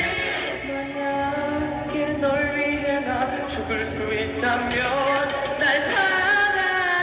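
A male voice singing a ballad live with musical accompaniment, holding long notes that waver with vibrato.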